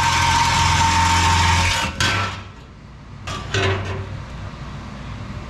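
A handheld power tool running steadily and then cut off just under two seconds in, during removal of the truck's old exhaust, followed by a sharp click and a few metal knocks.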